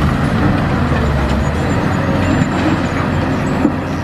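Big toy truck rolling along a plastic track or ramp: a loud, steady rumble and rattle of plastic wheels.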